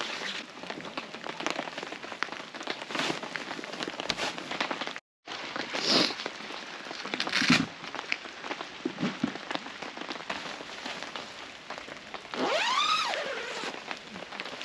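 Rain pattering on a tarp or tent shelter with scattered drips and crackling, and louder rustling bursts about six and seven and a half seconds in. Near the end comes a short pitched sound that rises and then falls.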